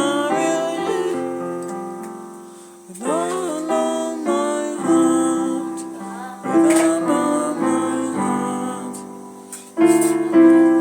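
Piano playing open-voiced, drop-2 chords in C major, a new chord struck every second or two and left to fade. A voice briefly sings along over it.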